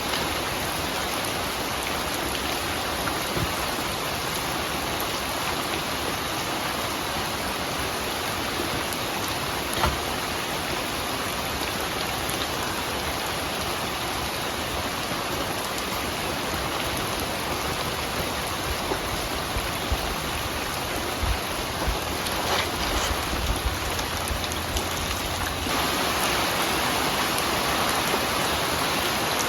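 Steady rain falling, with scattered louder drops. About two-thirds of the way through there is a low rumble, and near the end the rain grows louder.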